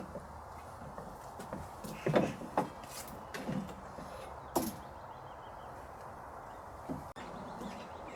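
A few short knocks and thumps of something being handled, the loudest about two seconds in, over a quiet background.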